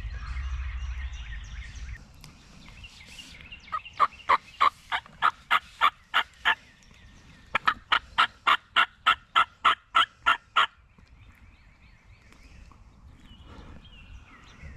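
Wild turkey yelps: two runs of about ten sharp, evenly spaced notes each, about three or four a second, the second run starting a second after the first ends.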